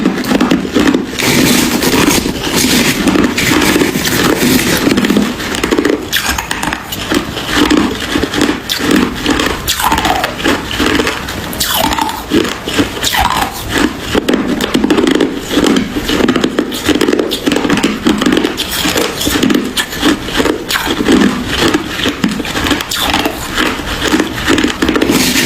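Hard ice being chewed close to the microphone: a steady run of loud, rapid crunches and cracks.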